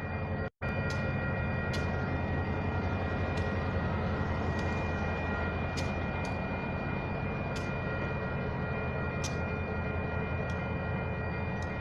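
Diesel locomotive of a San Joaquin Valley Railroad train running at a grade crossing, a steady low rumble. Above it are steady high ringing tones and a sharp click every one to two seconds.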